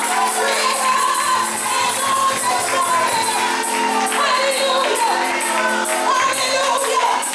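Gospel music: voices singing together over held accompaniment, with a tambourine shaken in a steady beat.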